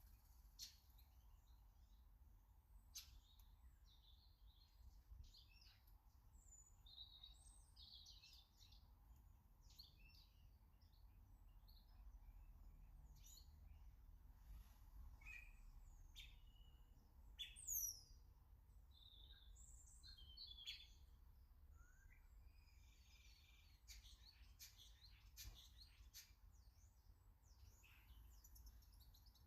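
Faint chirps and calls of small garden birds, scattered and overlapping, with one louder high call falling in pitch a little past halfway.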